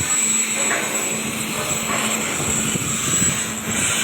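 A steady machine drone with a constant low hum.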